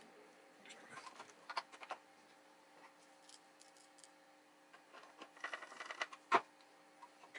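Light, scattered clicks and taps of small plastic drum-pad parts being handled during reassembly, with a quick run of them about five seconds in and the sharpest click just after.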